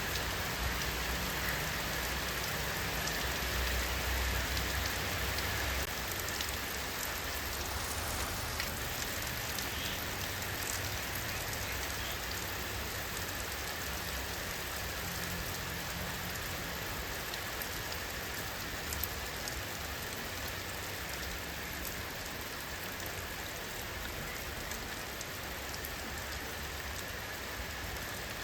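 Steady rainfall, an even hiss of many drops landing on surfaces, with a low rumble underneath that eases after about six seconds.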